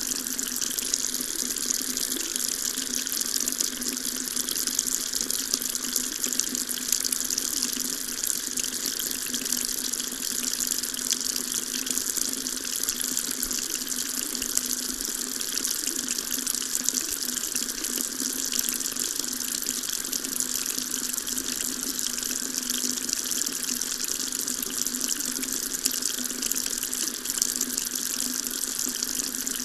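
Water tap running steadily into a sink: an even, unbroken splashing hiss.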